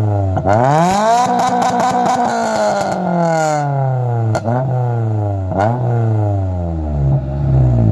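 Honda Civic four-cylinder engine revved through an aftermarket catback exhaust with a 4.5-inch burnt-tip muffler. One long rev climbs and is held for a second or two with a raspy crackle, then falls back. Two short throttle blips follow, and it drops back to idle.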